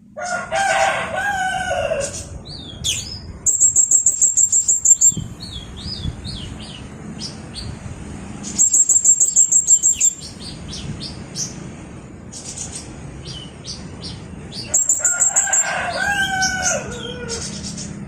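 Blue-crowned hanging parrot (serindit) singing: three bursts of fast, high-pitched trilling, with short sharp chirps between them. Two longer, lower calls, about a second in and near the end, stand out under the song.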